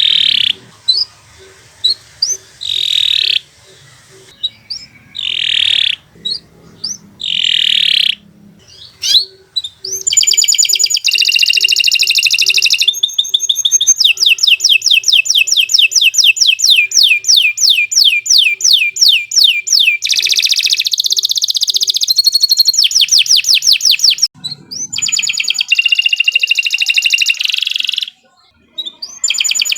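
Domestic canary singing: short separate phrases at first, then from about a third of the way in long continuous trills of fast repeated notes, broken only by a brief pause near the end.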